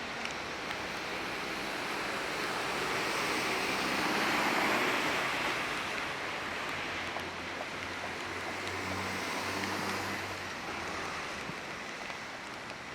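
Hiss of rain and tyres on a wet city street. It swells as a vehicle passes about four seconds in, then eases, with a low engine hum around nine to eleven seconds.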